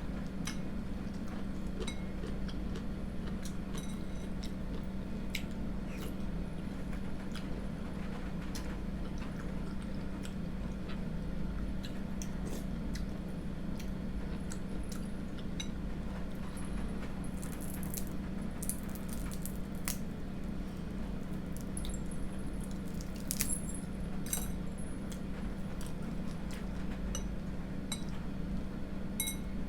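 Spoon clinking against a bowl and other small eating sounds while eating rice porridge, scattered ticks with a busier stretch past the middle, over a steady low hum.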